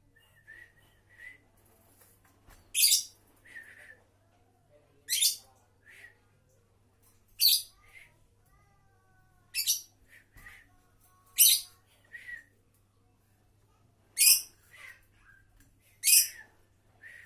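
A pet bird calling: seven short, shrill, high-pitched calls about two seconds apart, with softer chirps in between and a brief run of quieter whistled notes about halfway through.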